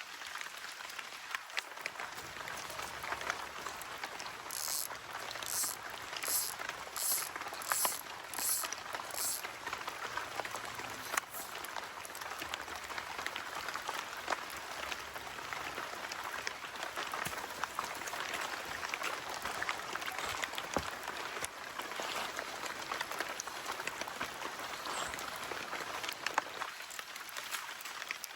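Steady patter of rain, with many scattered drops ticking. About five seconds in comes a short run of about seven evenly spaced high clicks.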